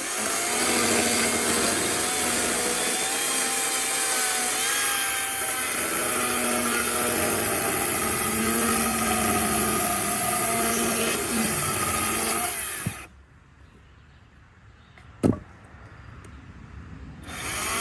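Electric chainsaw running steadily as it cuts through a wooden block, stopping about thirteen seconds in; a single knock follows a couple of seconds later.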